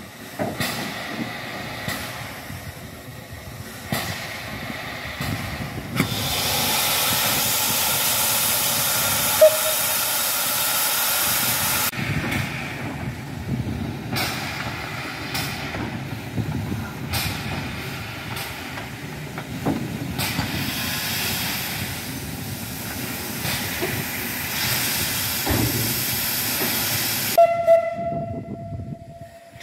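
MÁV class 424 steam locomotive hissing as it lets off steam, in two long loud stretches over a lower rumble and knocking. A short whistle toot comes near the end.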